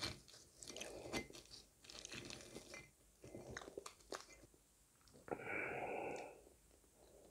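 Close-miked chewing and crunching of fried fast food such as french fries and fried squid rings, in quick, irregular crackles, with a louder, more even sound lasting about a second a little past five seconds in.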